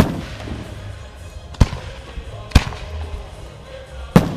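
Aerial firework shells bursting overhead: four sharp bangs at uneven spacing, each trailing off in a short echo.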